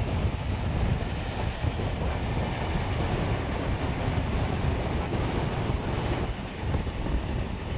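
Steam-hauled passenger train running along the line, heard from an open carriage window: a heavy, steady rumble of wheels on the rails with rushing air.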